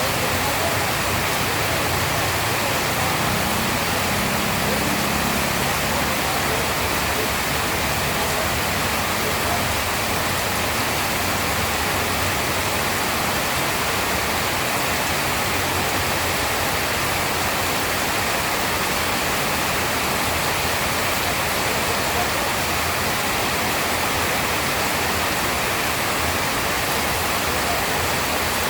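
Steady, heavy rain falling as an unbroken hiss. A faint low rumble sits under it a few seconds in.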